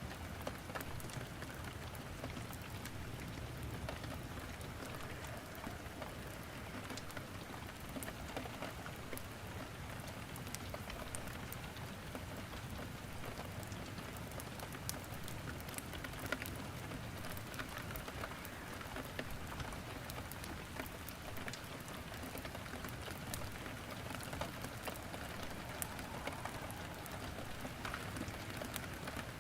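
Steady rain falling, a constant hiss, with scattered sharp pops and crackles of burning wood in a fireplace throughout.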